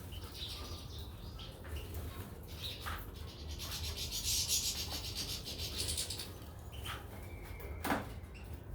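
Caged finches moving about: rustling and fluttering, loudest in the middle, a few short chirps, and a sharp click near the end.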